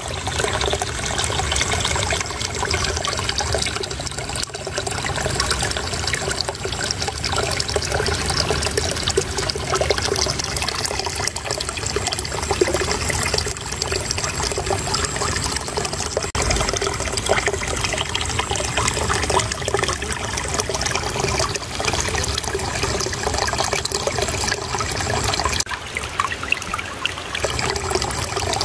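Shallow running water flowing and trickling steadily, a continuous babbling.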